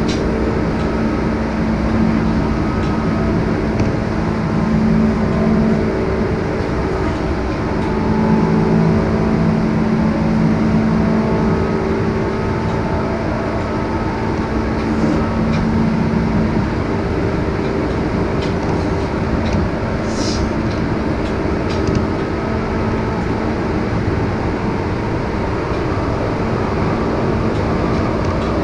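Tobu 10030 series electric train running at speed, heard inside the passenger car: a steady rumble of wheels on rail with a low hum that weakens a little past halfway, and a few light clicks.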